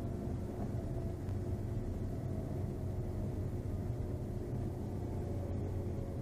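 Cirrus SR22's piston engine running steadily at low power after landing, an even low hum heard from inside the cockpit.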